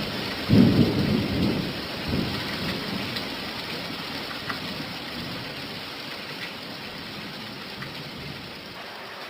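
Steady rain falling, with a low rumble of thunder that breaks in about half a second in and fades away over the next couple of seconds.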